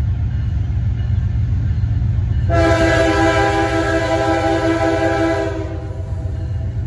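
Diesel freight locomotive's air horn sounding one long blast of several notes at once, starting about two and a half seconds in and lasting about three seconds, over the steady low rumble of the passing train.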